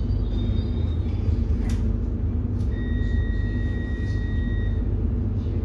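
Interior noise of a Siemens Nexas electric suburban train coming to a stop: a steady low rumble and hum, with a high steady tone for about two seconds in the middle and a few faint clicks.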